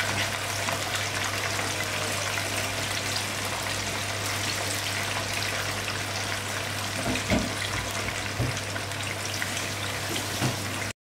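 Arrowhead slices frying in hot oil in a wok, a steady sizzle and crackle over a constant low hum. A few knocks stand out in the second half.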